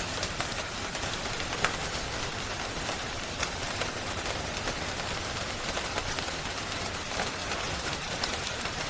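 Steady rain hiss with scattered sharp crackles and pops from a wood fire, one every second or two.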